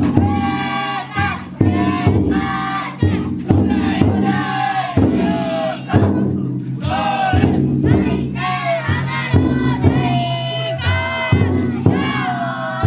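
Futon daiko float's taiko drum beaten in a steady beat, about once a second, with a group of bearers shouting a rhythmic carrying chant over it.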